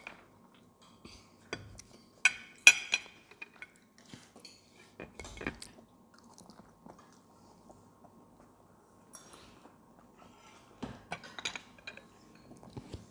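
Children chewing and crunching fried food at close range, with two sharp ringing clinks of a metal spoon against the plate about two and a half seconds in.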